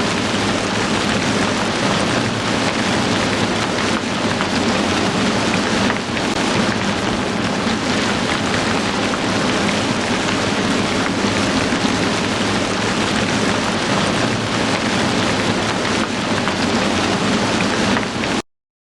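Heavy rain falling steadily, a dense even hiss of drops, then cutting off suddenly into silence near the end.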